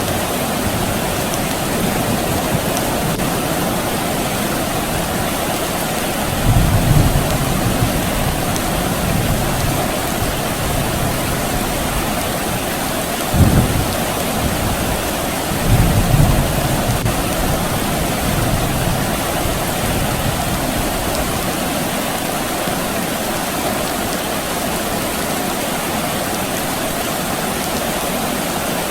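Steady rain with three low rumbles of distant thunder: one about a quarter of the way in, a shorter, sharper one near the middle, and another shortly after.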